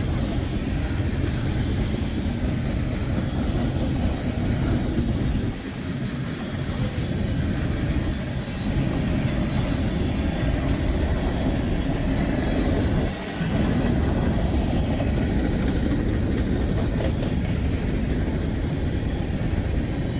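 Freight train of tank cars rolling past close by: a steady rumble of steel wheels on rail, dipping briefly about five and a half seconds in and again about thirteen seconds in.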